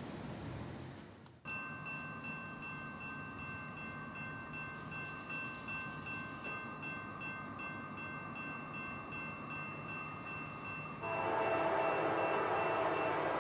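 Rumble of a passing freight train fading out, then a CSX freight locomotive's air horn, here a GE AC4400CW's, sounding a long steady chord. About eleven seconds in the horn becomes louder and fuller.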